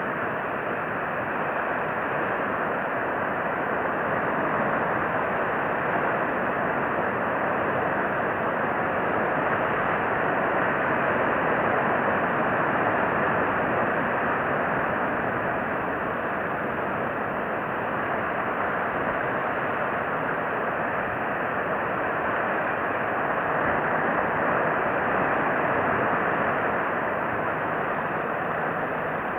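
Steady rushing outdoor noise that swells and eases slowly, with no distinct events.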